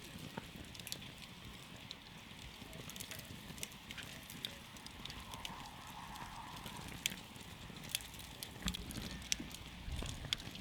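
Wood campfire crackling: irregular sharp pops and snaps over a steady low rustle of flame.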